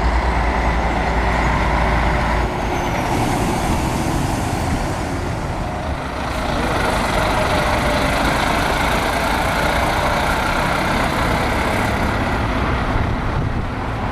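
Heavy diesel truck engine running close by with a deep, even throb that drops away sharply about two and a half seconds in, followed by the steady rushing noise of heavy vehicles moving past.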